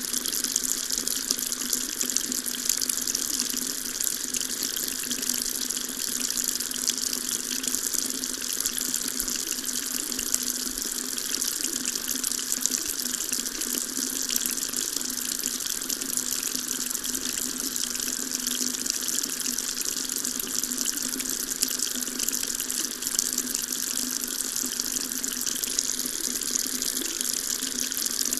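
Water tap running steadily, a constant stream splashing into a sink.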